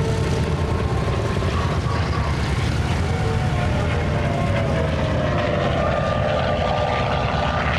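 Propeller-driven warbird flying past with a steady piston-engine drone. Its pitch falls slowly over the last few seconds as it passes.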